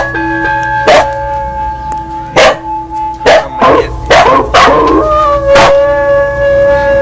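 A bell struck repeatedly at an uneven pace, its ringing tones hanging on between strikes, while a dog howls along with it.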